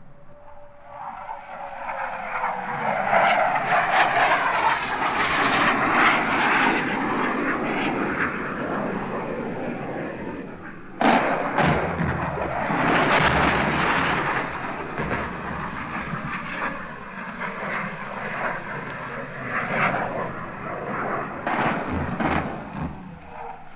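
Fixed-wing aircraft engine noise swelling in as the plane approaches and passes, with a sudden loud bang about halfway through and a few sharp cracks near the end.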